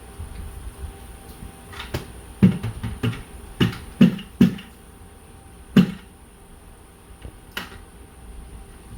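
A series of sharp knocks or bumps, about eight of them irregularly spaced over some five seconds, over a faint steady background hum.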